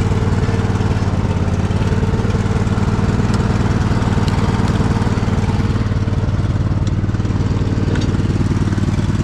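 Poulan riding mower engine running steadily with a misfire, popping a little now and then: a sign that the engine needs servicing.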